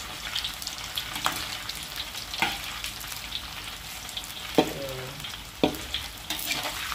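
Cubes of canned luncheon meat frying in hot oil in a wok, a steady sizzle, while a spatula knocks and scrapes against the wok about four times, loudest about two-thirds of the way through.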